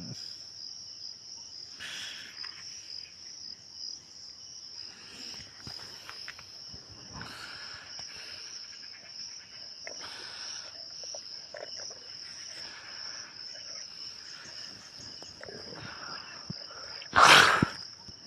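Insects chirring in one steady, high-pitched drone, with faint scattered rustles. A brief, loud rush of noise cuts in about a second before the end.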